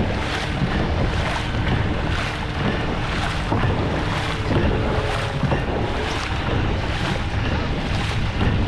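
Dragon boat paddles striking the water together in an even rhythm of about one stroke a second, each catch a short splash, with wind buffeting the microphone underneath.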